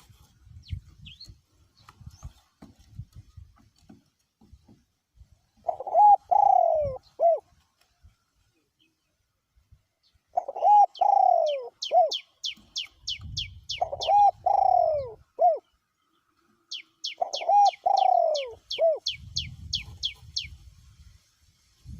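Male spotted dove cooing its short multi-note phrase four times, a few seconds apart. A quick run of high, fast chirps from another bird comes twice alongside the later coos.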